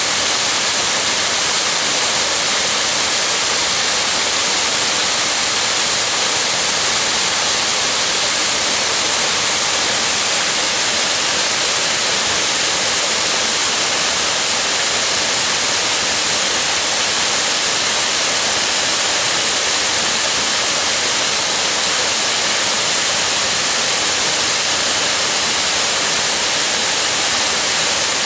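Tatsuzawa Fudō Falls pouring steadily: a constant, loud hissing rush of falling water that never changes.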